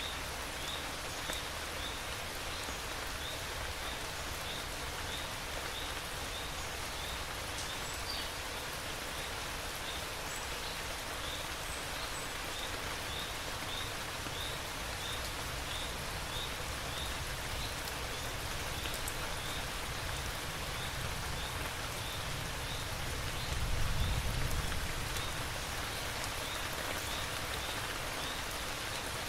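Steady rain falling, with a faint high chirp repeating about twice a second throughout. A low rumble swells briefly about 24 seconds in.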